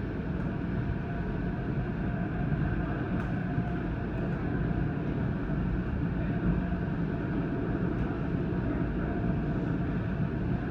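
NJ Transit commuter train heard from inside the car while under way: a steady rumble of wheels on the rails, with a faint steady hum above it and a few light ticks.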